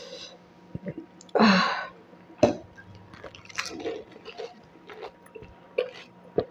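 Eating a water-filled pani puri (golgappa): a loud, wet bite about a second and a half in, a sharp crunch just after, then crunching and wet chewing with small crackling clicks.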